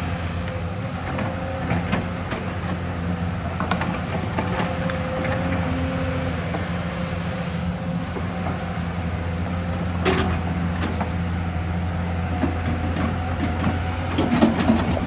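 Excavator's diesel engine running steadily under load, with a held hydraulic-like tone over the drone. A sharp metal clank about ten seconds in and a cluster of knocks near the end, as the bucket or tracks strike.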